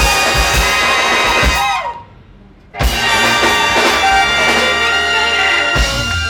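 Big band playing, with a drum kit and horns. The band cuts off sharply about two seconds in, and comes back in under a second later.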